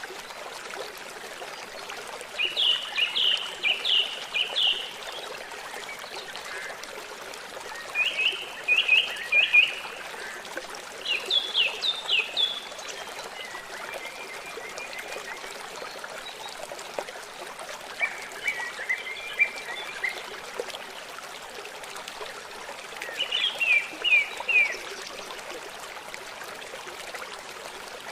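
Steady rush of a flowing river or stream, with a songbird singing short phrases of quick down-slurred notes every few seconds.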